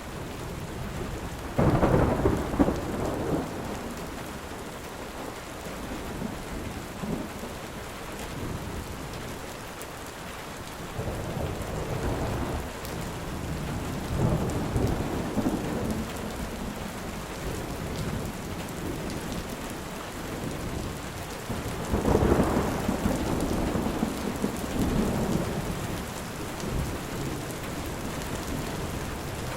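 Steady heavy rain with rolling thunder: a loud thunderclap and rumble a couple of seconds in, lighter rumbles in the middle, and another loud peal of thunder about two-thirds of the way through.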